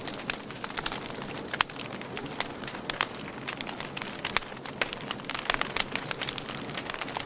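Wood fire burning in a fireplace, crackling and popping at irregular intervals over a steady hiss, with sharper pops about one and a half and three seconds in.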